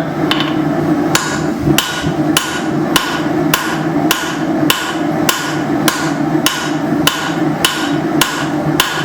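Hand hammer striking hot leaf-spring steel on an anvil to draw it out thinner, in a steady rhythm of a little under two blows a second.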